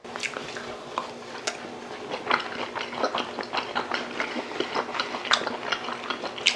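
Close-miked chewing of raw rock bream sashimi: irregular wet mouth clicks and smacks from two people eating.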